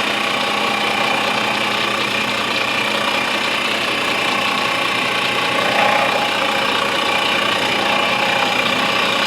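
Milling machine running steadily, a constant mechanical hum and whine with no starts or stops, during inletting of a walnut gunstock.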